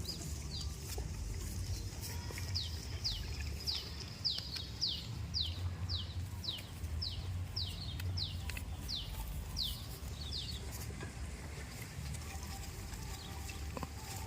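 A bird calling a long series of short, high, falling whistled notes, about two a second, starting a few seconds in and stopping near the middle. A steady low rumble runs underneath.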